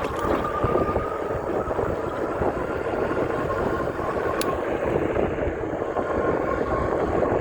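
Riding noise of an e-bike on wet roads: wind buffeting the microphone over steady tyre hiss, with a faint steady whine and a single sharp tick a little past halfway.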